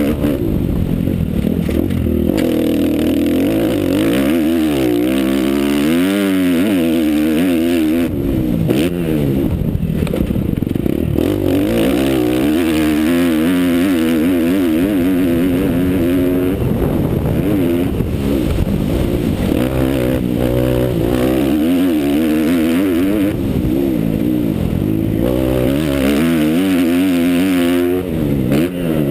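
Motocross bike engine under hard riding, revving up and falling back again and again as the rider works the throttle and gears.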